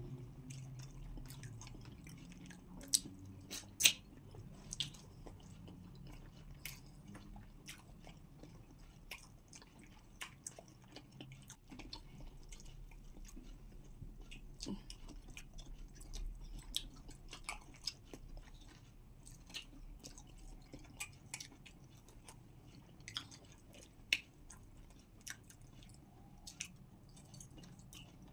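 Close eating sounds: chewing of pounded yam and okra soup eaten by hand, with scattered sharp clicks, the loudest a pair about three to four seconds in and another near the end.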